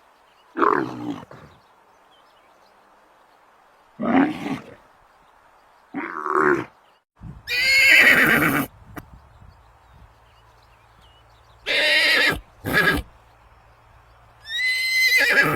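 Horses neighing: a string of separate calls with short pauses between them. The longest, about a second, comes in the middle, and the later calls are high-pitched and wavering.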